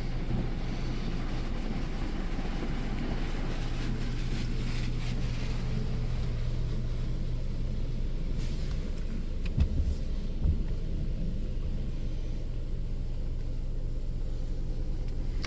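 Mark VII ChoiceWash XT touchless in-bay car wash running over the car, heard from inside the cabin: a steady machine hum with water spray hissing on the body. Two short thumps come about ten seconds in.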